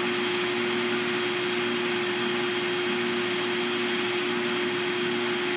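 Steady machine drone with a constant pitched hum, like a vacuum or blower motor running, and a lower tone that keeps cutting in and out.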